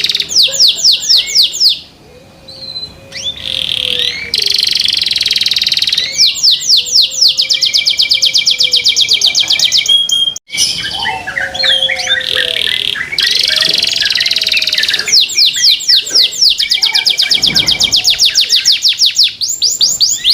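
Domestic canary singing loudly: fast trills of rapidly repeated sweeping notes, in phrases several seconds long with short pauses between them.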